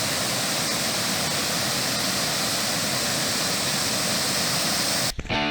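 Waterfall rushing in a steady, even roar of falling water, cut off abruptly near the end by guitar music.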